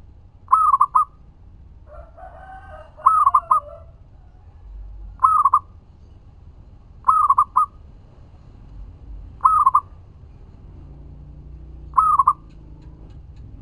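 Zebra dove (perkutut) cooing: six short phrases of a few quick notes each, repeated about every two seconds, with a lower, longer call overlapping about two to three and a half seconds in.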